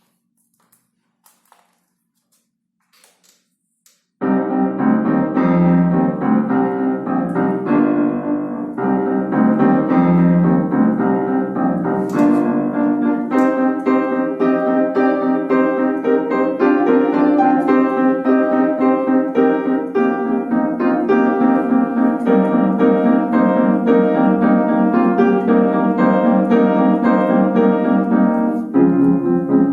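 Solo piano playing a busy piece of quick running and repeated notes, starting about four seconds in after a few faint clicks.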